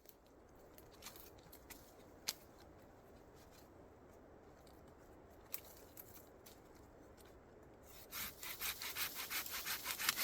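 A hand saw cutting wood in rapid, even back-and-forth strokes, starting about eight seconds in. Before it come a few scattered sharp clicks over a low steady background.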